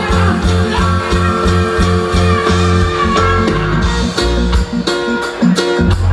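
Reggae band playing an instrumental passage with no singing: a heavy bass line under guitar and steady drum hits.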